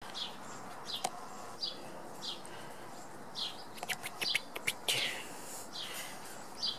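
A small bird chirping over and over, short high falling chirps about one every two-thirds of a second, with a quick run of sharp clicks around the middle.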